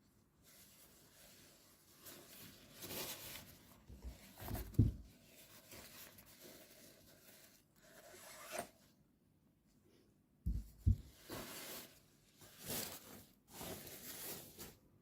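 Irregular rustling and rubbing of a hair covering being handled, in short bursts, with soft bumps about five seconds in and again near eleven seconds.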